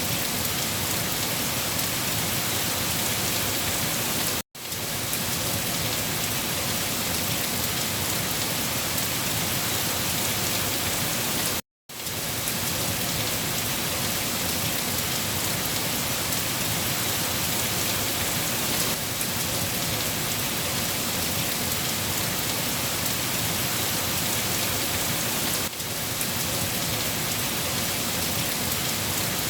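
Steady, dense rainfall, with two brief cuts to silence about four and a half and twelve seconds in.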